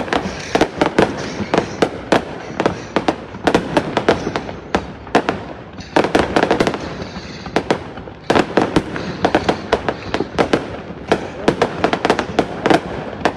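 Fireworks going off in a dense run of sharp bangs and crackles, several a second, easing briefly about six and eight seconds in.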